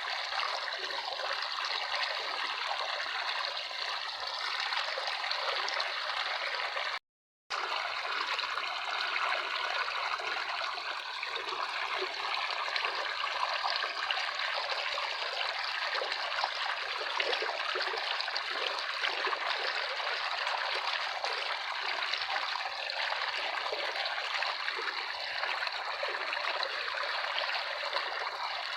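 Running water trickling steadily, like a small stream. The sound cuts out completely for about half a second some seven seconds in, then carries on unchanged.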